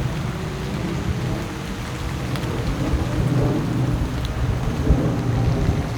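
Low, fluctuating rumble of wind buffeting the microphone and tyre noise from a Ninebot F2 electric scooter rolling along a wet paved trail, with a steady hiss and a few light ticks.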